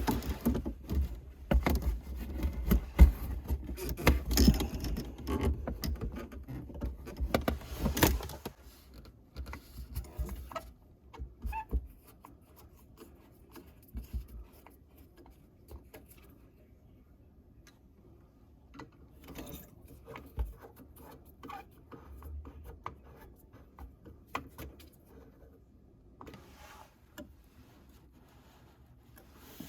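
Clicks, knocks and rubbing of tools and fittings being handled, busy for about the first eight seconds, then only scattered clicks.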